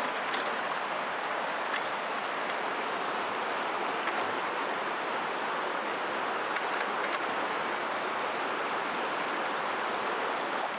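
River water flowing with a steady, constant rush, broken by a few faint clicks.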